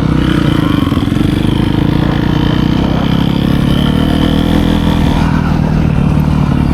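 Dirt bike engine running loud and close, its pitch drifting up and down a little with the throttle.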